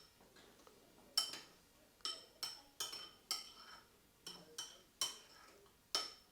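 Spoon stirring porridge in a bowl, knocking against the side: a run of about nine irregular ringing clinks, roughly every half second.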